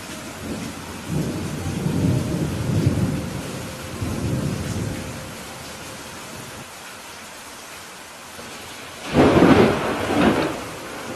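Steady rain with thunder: a low rolling rumble over the first few seconds, then a sharper, louder thunderclap about nine seconds in.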